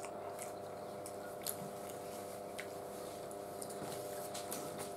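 Faint chewing and wet mouth sounds of spaghetti being eaten, with a few small clicks, over a steady low hum.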